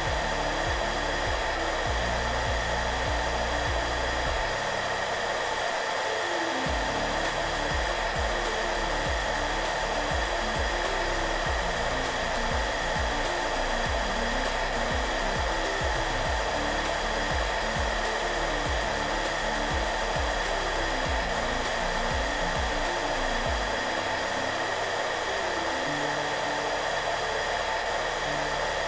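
Electric hairdryer running steadily, a constant whooshing blower noise with a faint steady whine in it, over soft background music with slow low notes.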